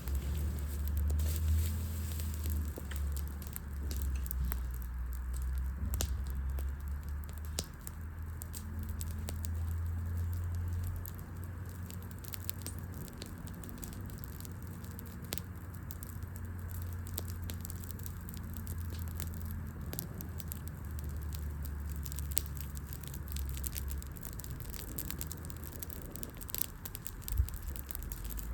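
Wood campfire crackling, with frequent small snaps and pops from the burning logs over a steady low rumble.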